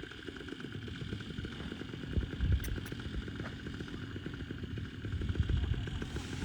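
Paramotor engine running steadily, with an uneven low rumble like wind on the microphone.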